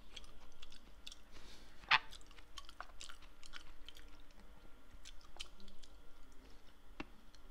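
A person chewing a mouthful of strawberry muffin, with many small wet mouth clicks; a sharper click about two seconds in and another near the end.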